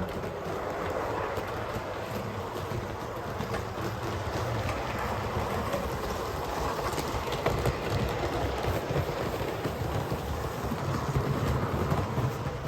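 Large-scale Bachmann James model locomotive running along its track, a steady rumble of motor and wheels with occasional faint clicks.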